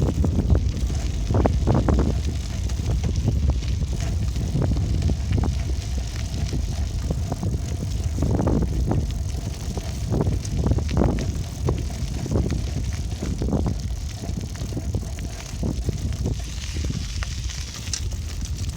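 Wind buffeting the microphone during a bicycle ride, a steady low rumble, with irregular rattles and knocks from the bike over the ground.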